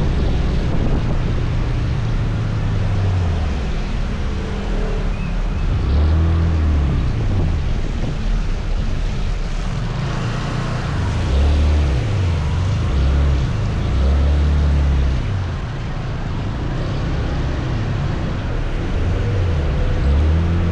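Wind buffeting the microphone on a moving scooter, with the scooter's engine and tyre noise from wet road underneath.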